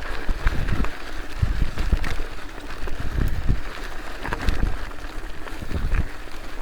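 Wind gusting on the microphone: irregular low rumbling buffets over a steady outdoor hiss.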